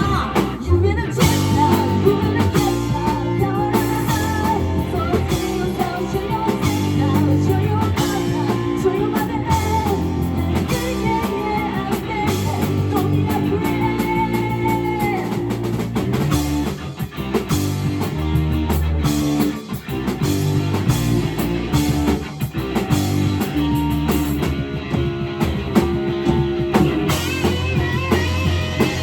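A live rock band playing: electric guitar, bass and drum kit, with a vocal or lead line in places.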